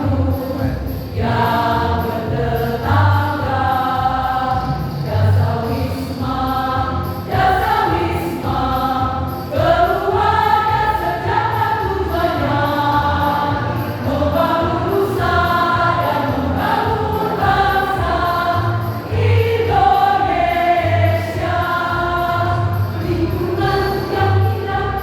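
A choir singing a song in parts, with a steady low beat of accompaniment underneath.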